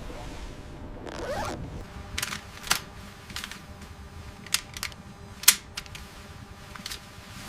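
A run of sharp, irregularly spaced clicks and ticks, about nine of them, over a steady low hum. A brief rising swoop comes about a second in.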